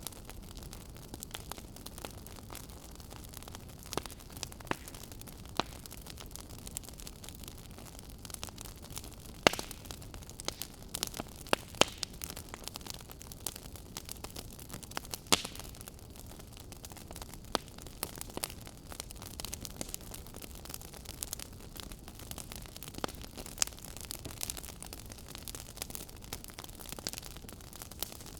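Wood fire burning in a fireplace: a steady low rush with irregular sharp crackles and pops, a few louder snaps among them.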